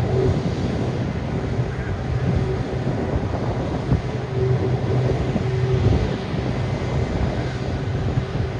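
Steady low mechanical drone with a constant hum, neither rising nor falling, mixed with wind buffeting the microphone.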